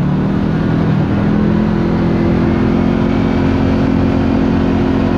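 Side-by-side UTV engine running while driving, its pitch climbing about a second and a half in and then holding steady.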